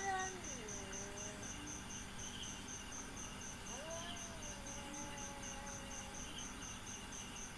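A cat's long, low, wavering yowls, from a cat left agitated after a fight: one trails off in the first second or so, and another drawn-out one runs from about four to six seconds in. Under them a cricket chirps steadily, about five chirps a second.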